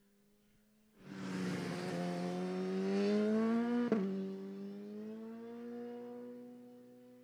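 BMW HP4 superbike's inline-four engine comes in loud about a second in, revving up under acceleration with its pitch rising. About four seconds in there is a sharp click and the pitch drops suddenly, then it pulls again with a slower rise and fades away toward the end.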